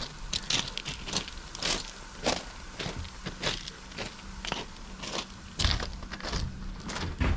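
Footsteps crunching on gravel at a steady walking pace, a little under two steps a second.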